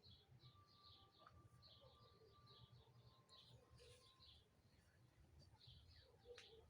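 Faint birds chirping: quick, repeated short calls, several a second, over a low background rumble.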